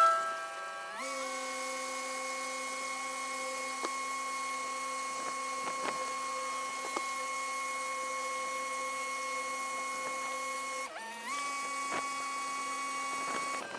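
A canal boat's engine sped up twenty times, heard as a steady high whine with several tones. Its pitch steps up about a second in, dips and steps back up about eleven seconds in, and it cuts off near the end, with a few faint ticks along the way.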